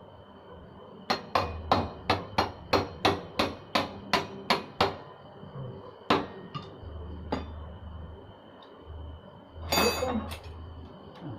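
Hammer blows in a quick series of about a dozen, roughly three a second, then one more blow and a few lighter knocks and a short clatter near the end.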